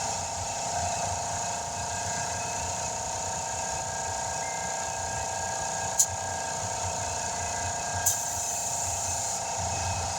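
Steady hum of a running machine, with two sharp clicks about six and eight seconds in; the second click is followed by a brief hiss.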